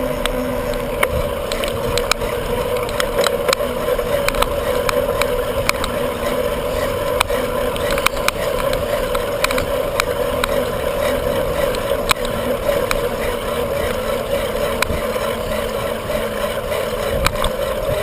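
Riding noise of a bicycle on the move: a steady rush of wind over the microphone, with frequent small clicks and rattles.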